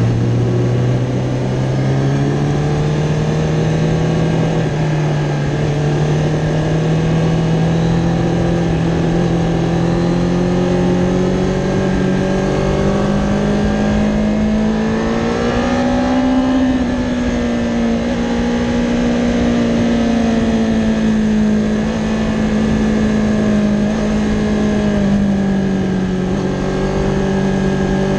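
Kawasaki Ninja ZX-10R's inline-four engine running under steady throttle, its note climbing slowly for about fifteen seconds, then easing off slightly and holding, with no sharp gear changes.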